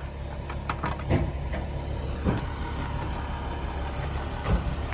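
Military truck's engine idling steadily, with a few short knocks and clunks in the first half and one near the end.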